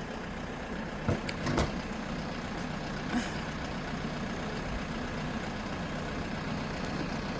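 An engine running steadily, with two sharp knocks a little after a second in and a lighter one about three seconds in.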